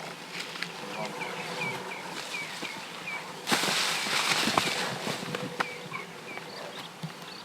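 Natural outdoor ambience: short high chirps repeating about three times a second, and a loud hiss lasting nearly two seconds midway.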